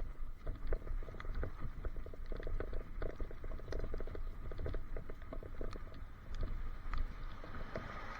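Irregular rattling and clicking over a steady low rumble, picked up by an action camera inside its waterproof case on a handlebar mount. The rattle's cause is unknown.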